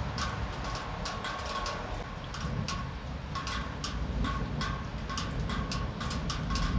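Rain, with close drops ticking irregularly on a hard surface over a low rumble of the storm. The rumble swells near the end as thunder begins.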